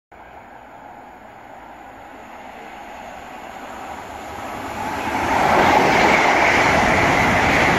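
LNER Class 801 Azuma electric train approaching and passing through a station at speed. Its rushing rail noise grows steadily louder for about five seconds, then holds loud as the carriages run close by, with a steady high whine.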